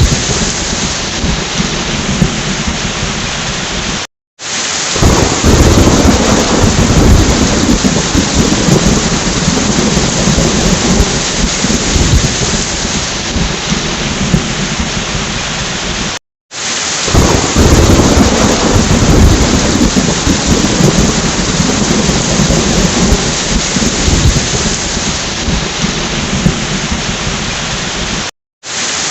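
Heavy rain pouring steadily with low rolling thunder. The sound cuts out completely for a moment three times, about every twelve seconds, and each time comes back with a swell of thunder rumble, as a looped storm recording.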